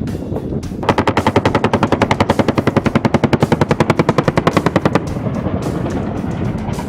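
A machine gun firing one sustained burst of about four seconds, at roughly ten shots a second, that starts about a second in and stops suddenly. Steady helicopter-type engine noise remains after it.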